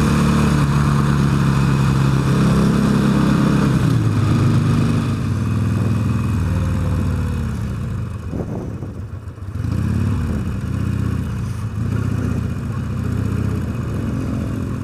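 Motorcycle engine picked up from inside the rider's helmet, running steadily at first, then its note drops and fades about two-thirds of the way through before rising and falling several times as the bike pulls away again.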